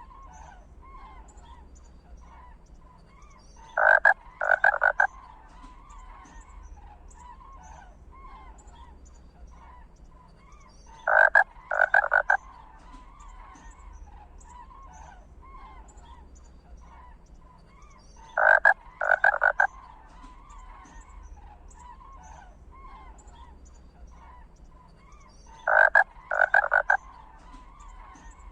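Animal calls: a loud pulsed call in about three quick parts comes four times, evenly spaced about seven seconds apart, over a faint continuous chorus of small calls.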